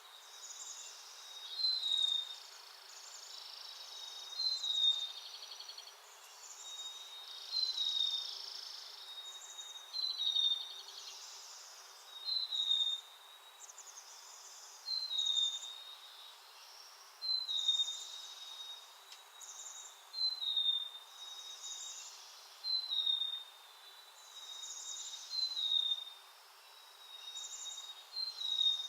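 Backyard songbird calling: a short, high, slightly falling note repeated about every two and a half seconds, with other birds chipping and chattering between, over a faint steady high tone.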